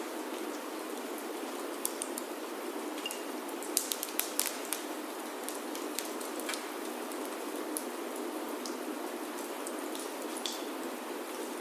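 Steady rain on a wooden roof, with the sharp, scattered pops and crackles of a wood fire in a fireplace, several louder ones bunched together about four seconds in.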